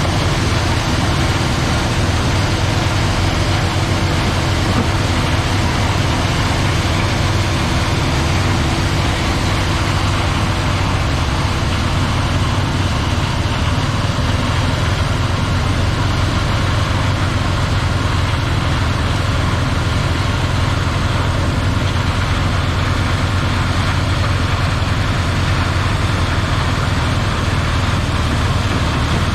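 Claas Lexion 740 combine harvester running steadily, a constant low engine hum under an even mechanical rush with no change in speed.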